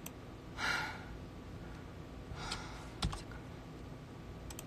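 A breathy sigh, then a few sharp clicks on a computer keyboard or mouse while editing.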